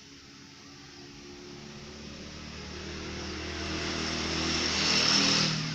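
A motor vehicle passing by: engine and road noise grow steadily louder, peak near the end, then fall away quickly.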